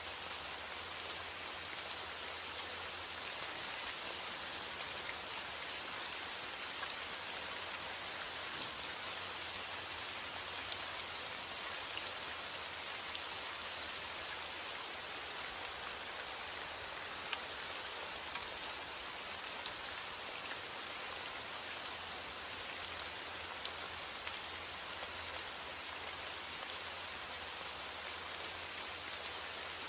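Heavy rain falling steadily: a dense, even hiss dotted with the fine ticks of individual drops.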